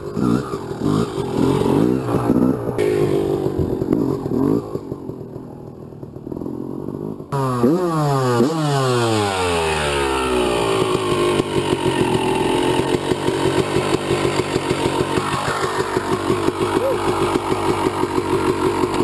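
Two-stroke motorcycle engine revving and changing pitch; after a sudden change about seven seconds in, the pitch falls steeply, then the engine runs hard at high revs.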